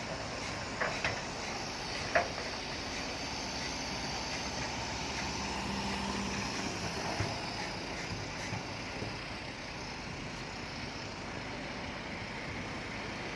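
Bulldozer engine running steadily, with a few sharp metallic clanks in the first two seconds and a deeper low note for a second or two around the middle.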